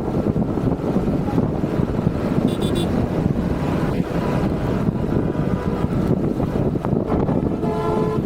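Steady rumble of a moving vehicle with wind buffeting the microphone. A brief high chirping sound comes about two and a half seconds in, and a short tone sounds just before the end.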